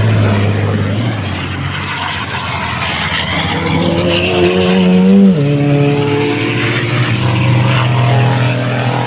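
Racing truck engine under load, its note climbing for a couple of seconds, then falling sharply about five seconds in as it changes gear, and running on steadily after.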